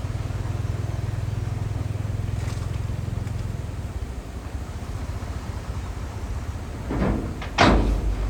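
Heavy diesel machinery engine running steadily at a low pitch, with two loud thumps near the end, the second the louder.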